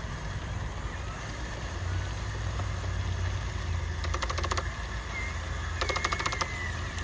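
Handmade RC construction truck running: a steady low rumble, with two short bursts of rapid clicking about four and six seconds in.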